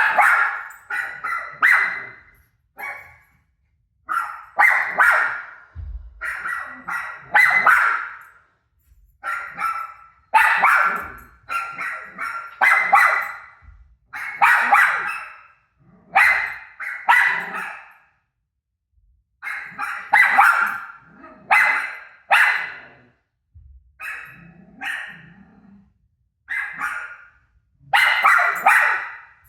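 A dog barking repeatedly, in quick runs of two to four barks with brief pauses between.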